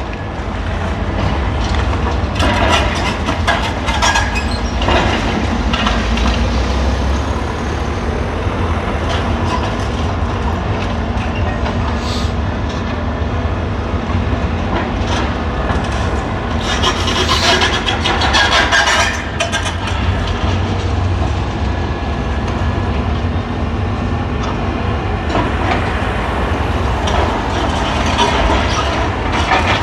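Demolition machinery at work: a heavy diesel machine drones steadily, with recurring bursts of clattering and crunching as masonry and rubble are broken and moved, heaviest a few seconds in and again past the middle.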